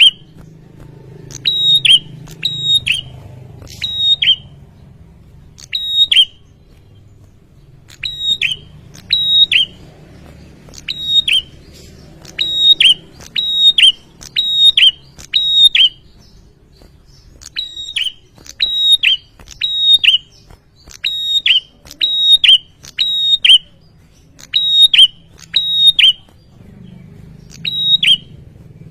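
Prenjak (prinia) calling: loud, shrill, sharply repeated notes, each a quick downward-slurred chirp, coming in clusters of two to four with short pauses between. A faint low hum runs underneath.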